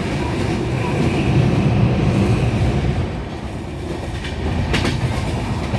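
Indian Railways express train running on the rails with a steady low rumble of wheels, and a sharp click near the end.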